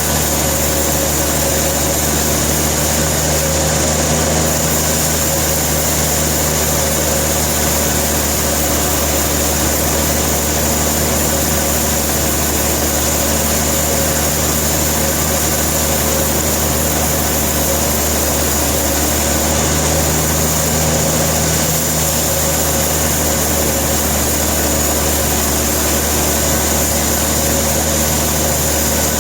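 Sawmill machinery running steadily, an engine hum with constant pitch and level throughout.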